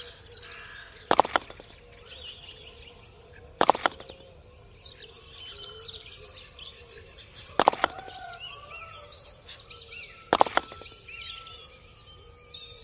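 Small birds chirping and twittering throughout, with four short, sharp knocks spread a few seconds apart standing out as the loudest sounds.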